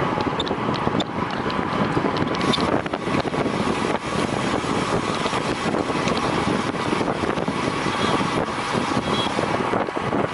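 Wind rushing over a racing cyclist's on-bike or helmet camera microphone at speed: a steady, dense rushing noise with a few faint short high tones.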